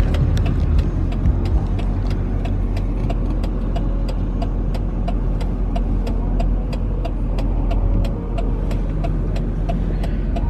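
Car engine and road rumble heard from inside the cabin, steady and low, with a fast, even ticking running through it.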